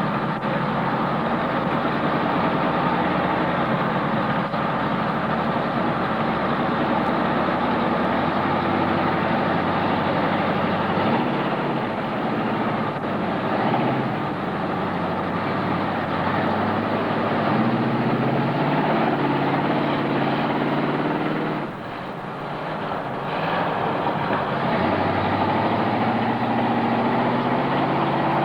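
Big truck engine running for a long stretch, its pitch rising and falling as it is revved up and eased off, with a brief drop in loudness about three-quarters of the way through.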